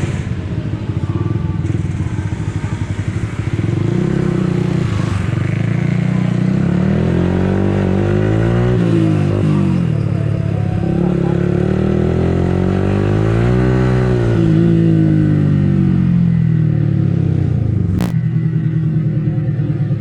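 Motorcycle engine under way, pulling up through the revs and easing off twice, its pitch rising and falling each time, with one sharp click near the end.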